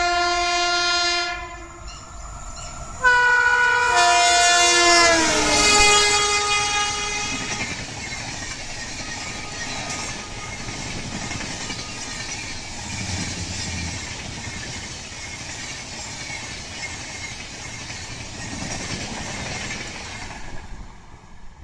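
Indian Railways locomotive horn sounding twice: a short steady blast, then a longer one whose pitch drops as the locomotive passes. The coaches follow, rolling by with a steady clatter of wheels over rail joints that fades near the end.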